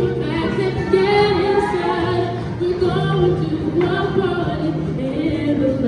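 Music: a group of female voices singing held notes together over steady lower tones.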